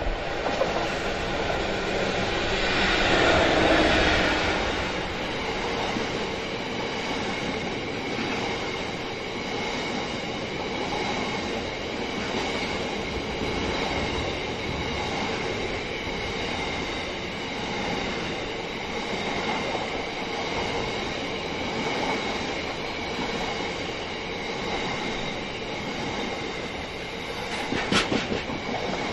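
Class 66 diesel-hauled coal train passing, loudest about three to four seconds in, then a long rake of wagons rolling by with a steady rhythmic clatter over the rail joints and faint high wheel ringing. A sharp click sounds near the end.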